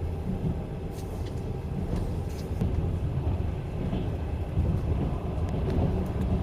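A Trans-Siberian Railway passenger train (the Rossiya) running along the line, heard from inside the carriage as a steady low rumble with a few faint clicks and knocks.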